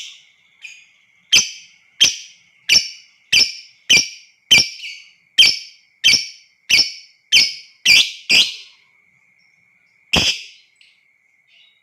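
Lovebird giving a run of about a dozen loud, shrill calls, roughly one every half second or so, then one more after a short pause. A faint steady high tone runs underneath.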